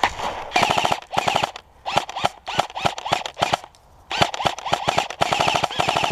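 Electric airsoft rifle firing on full auto in about seven short bursts of rapid shots, each under a second long and with brief pauses between, the gearbox whirring under the shots.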